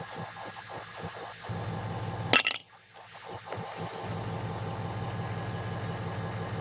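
An engine idles steadily with a low, evenly pulsing hum. A single sharp metallic clank comes about two seconds in, then the hum drops away briefly and resumes.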